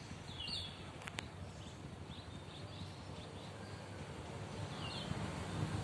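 Birds giving short, falling chirps now and then over a steady low rumble, with two sharp clicks about a second in.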